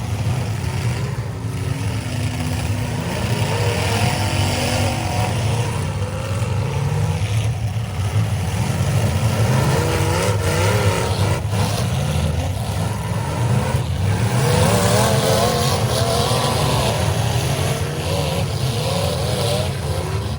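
Several demolition derby cars' engines running hard at once, revving up and down over one another under a heavy rumble, with a few sharp knocks of cars colliding.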